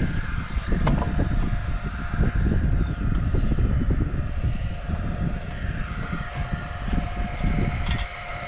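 Wind buffeting a GoPro's microphone, a loud, uneven low rumble. A faint steady tone runs under it from about a second in, with a sharp click about a second in and another near the end.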